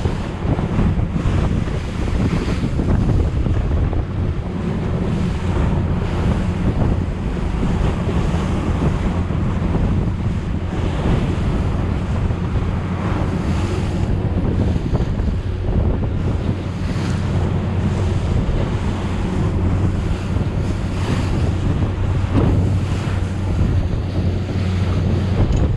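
Outboard motor running at a steady cruising hum as a flat-bottomed boat runs through choppy swells, with water splashing against the hull and heavy wind buffeting the microphone.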